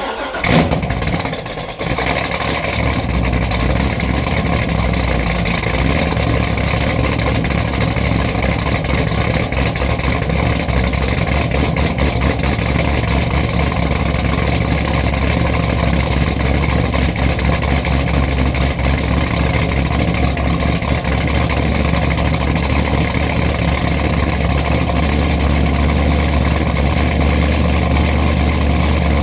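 Supercharged, cammed Corvette V8 just fired on a cold start: it flares briefly in the first second or two, then settles into a steady, choppy cold idle from its aggressive camshaft.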